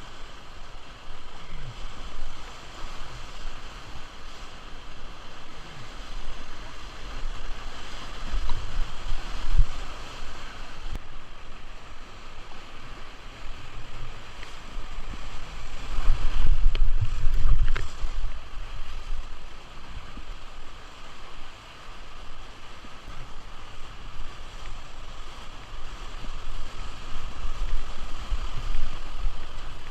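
Steady rush of moving river water around an inflatable canoe. Low rumbles of wind buffet the microphone now and then, the strongest about halfway through.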